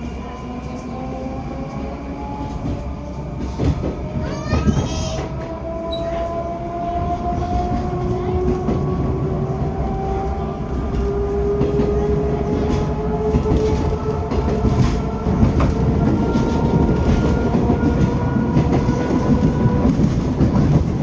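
Moscow metro 81-740/741 Rusich train accelerating: the traction motors whine in several tones that rise slowly and steadily in pitch, over the rumble of wheels on rail, with a brief run of clicks about four seconds in.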